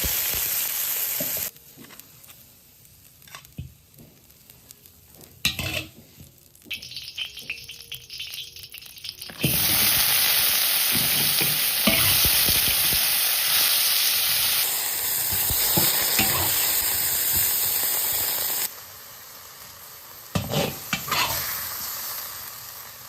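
Food sizzling as it fries in a pan, in several cut-together stretches. Loud, steady sizzling alternates with quieter spells in which a spatula scrapes and clinks against the pan.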